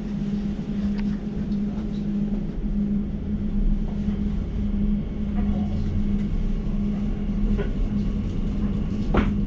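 Elizabeth line Class 345 train running through the tunnel, heard from inside the carriage: a steady low rumble with a constant hum, the rumble growing heavier a few seconds in.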